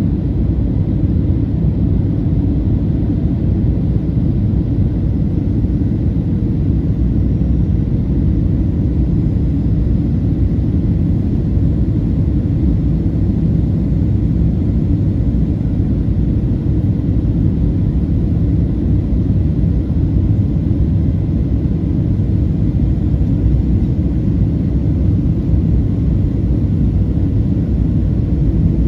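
Steady low rumble of cabin noise inside a Boeing 737-800 in flight: airflow and engine noise, even throughout with no sudden events.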